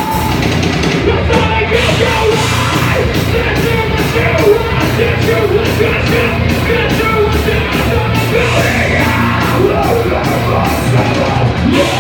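Live heavy rock band playing loudly: bass, drums with a steady beat of cymbal strokes, and distorted guitars, with shouted vocals over them.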